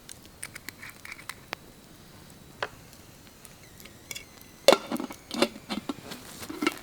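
Scattered light clicks and taps, then a quick run of louder knocks about two-thirds of the way through: the handling sounds of preparing food at a camp.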